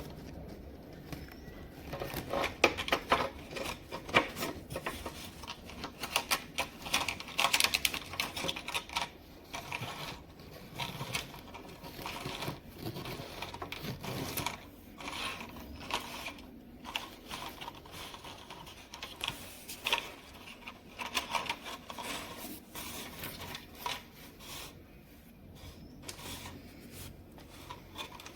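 Irregular clicks, taps and light scraping of small hard parts being handled during repair work, busiest and loudest in the first half.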